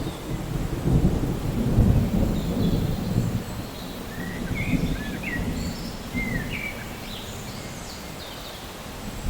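Rolling thunder rumbling over steady rain, dying away after the first few seconds. A few short bird chirps come through in the middle.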